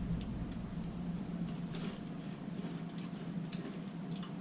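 Faint crunching as someone chews crispy baked corn snack bites, a few soft crackles over a low steady room hum.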